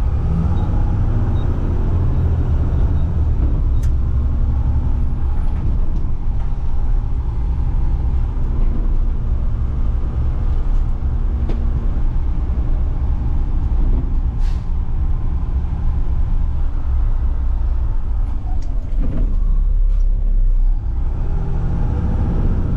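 Mack front-load garbage truck's diesel engine running steadily as the truck drives, a continuous low drone, with a few brief clicks along the way.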